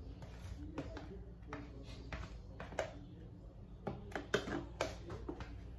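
Cake batter being scraped from a mixing bowl into a cake pan: a run of short clicks and knocks of a utensil against the bowl and pan, coming more often near the end.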